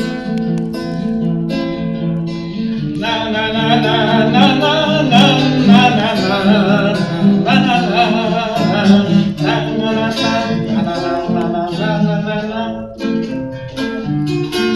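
Acoustic guitar playing the introduction to a campfire song. A fuller melody line joins about three seconds in, before the singing of the words begins.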